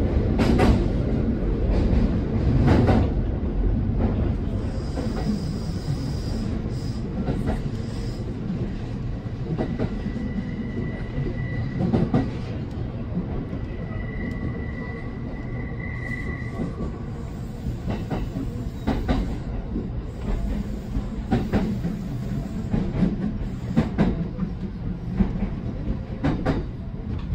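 Kintetsu electric train running on the rails, heard from the driver's cab: a steady rumble of wheels on track with scattered rail-joint clicks. It is louder at the start, while crossing a steel truss bridge. A thin, faint high squeal drifts in around the middle.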